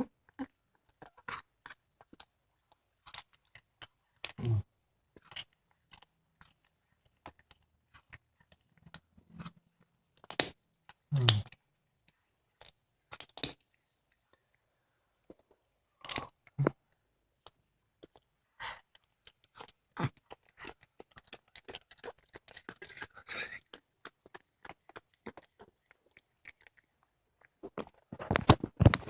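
A cat chewing and crunching through a squirrel carcass: irregular bites and bone crunches, with a dense run of loud crunching near the end.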